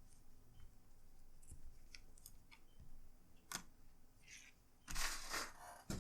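Small plastic clicks and taps from handling laptop screen parts and cables, with a louder scraping rustle about five seconds in.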